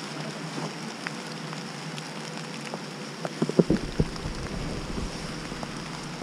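Steady rain pattering on wet leaves and rain gear. About three and a half seconds in there is a short cluster of bumps and scuffs as someone clambers onto a wet fallen log, followed by a low rumble.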